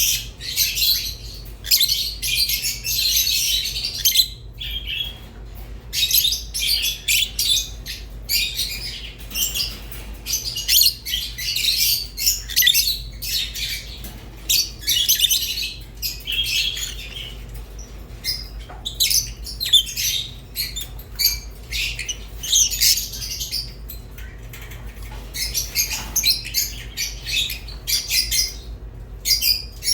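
Rosy-faced and Fischer's lovebirds chirping and squawking in a rapid, near-continuous chatter of high chirps broken by brief pauses, over a steady low hum.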